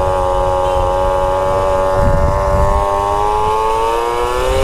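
Small two-stroke moped engine running steadily, its pitch rising slightly over the last second or two.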